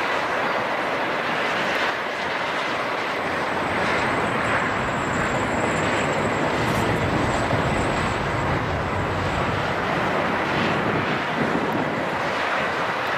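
Steady roar of an airliner's jet engines, with a faint high whine in the middle.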